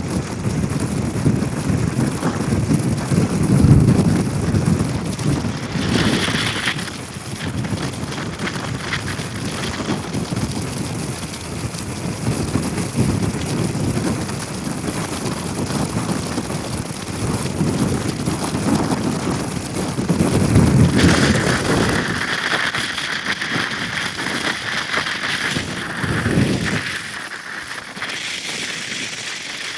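Rain and wet-road noise with wind buffeting the microphone, under a low rumble that swells and fades several times.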